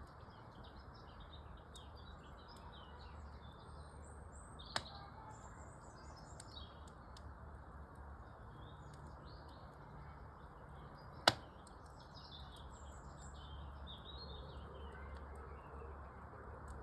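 Small birds chirping and twittering over a steady low hiss, with sharp pops from a wood fire in a fireplace: a small one about five seconds in and a louder one around eleven seconds.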